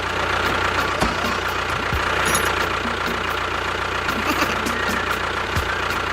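Small motor of a DIY model construction vehicle running steadily, with a held whine and a light regular ticking about four or five times a second.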